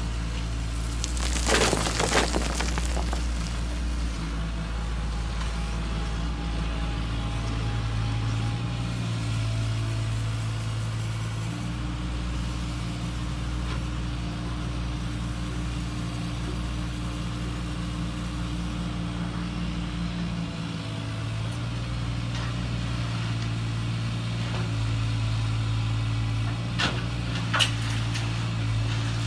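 Electric motors of a Huina 1580 metal RC excavator running with a steady hum whose pitch shifts every few seconds as the machine moves. A brief rattling burst comes about two seconds in, and a few sharp clicks come near the end.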